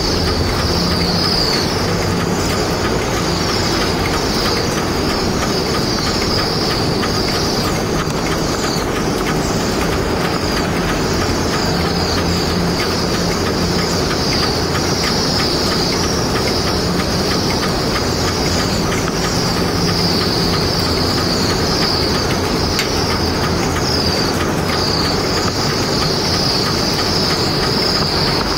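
A flock of cedar waxwings giving many thin, high overlapping calls without a break, over a steady low rumble.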